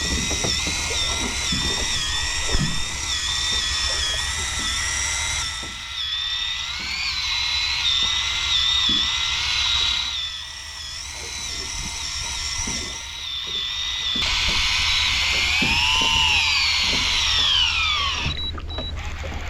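Electric fishing reel's motor whining as it winds in a hooked fish, a red sea bream, its pitch wavering as the fish pulls. Near the end the whine rises and then falls away, and it stops just before the end.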